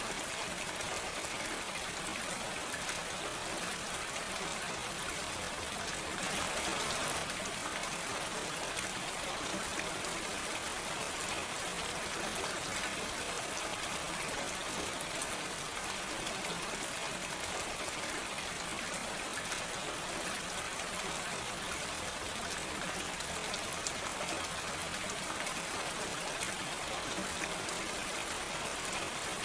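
Steady gentle rain falling, a dense even patter of raindrops with no thunder, swelling slightly about six seconds in.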